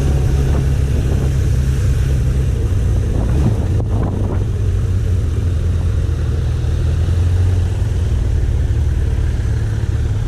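Suzuki GSX1100F's inline-four engine running steadily at road speed, with wind rushing over the microphone.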